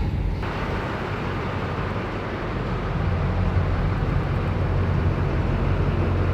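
Motor vehicle engine running with a steady low hum and a hiss of road and wind noise. The engine note grows stronger about three seconds in.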